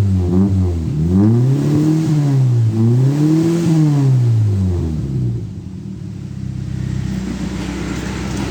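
1992 Toyota Kijang's engine revved through its exhaust: the rpm rises and falls in a few blips, then drops back to a steady idle about five seconds in.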